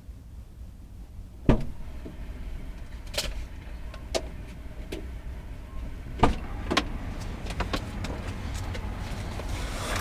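Inside a car: a low steady rumble with a handful of sharp clicks and knocks, the loudest about one and a half seconds in.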